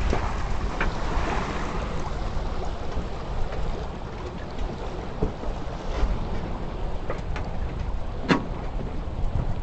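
Wind blowing across the camera microphone: a steady low rushing rumble, with a few short clicks and one sharper knock about eight seconds in.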